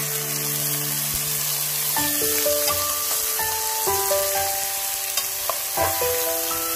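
Raw chicken pieces sizzling in a metal pot with onion and ginger, stirred with a metal ladle, with a couple of light knocks about five and a half seconds in. Background music with a simple melody plays over it.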